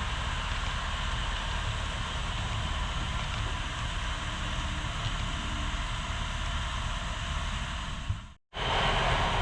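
HO scale model train running on the layout, a steady rumble and hiss of wheels on track that breaks off to silence for a moment about eight seconds in, then resumes.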